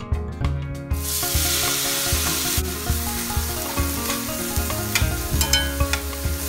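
Sweet corn kernels sizzling in hot melted butter in a stainless steel pan, starting about a second in as the corn goes in. A spatula stirs and scrapes through them in the second half.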